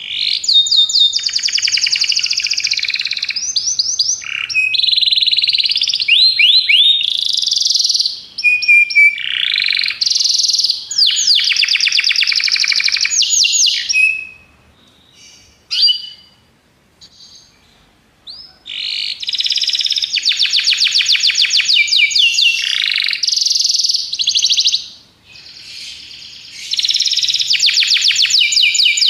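Domestic canary (Belgian canary) singing: long phrases of rapid trills of repeated notes, changing pitch from phrase to phrase. The song breaks off for a few seconds midway, with only a few short chirps, then goes on again.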